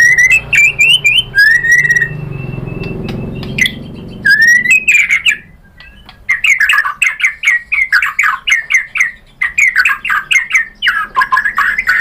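White-rumped shama (murai batu) singing: clear whistled notes that slide upward, then from about six seconds in a fast, rhythmic run of short repeated notes.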